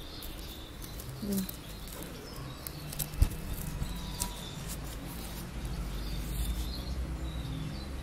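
Small birds chirping intermittently in the background over a low rumble on the microphone, with one sharp click about three seconds in.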